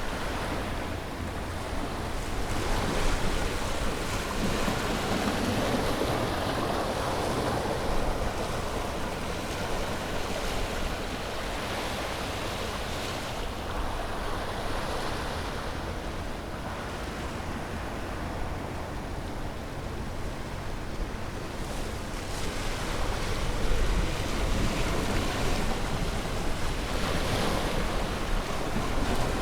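Sea waves breaking and washing on a shore, the surf swelling and easing every few seconds, with some wind on the microphone.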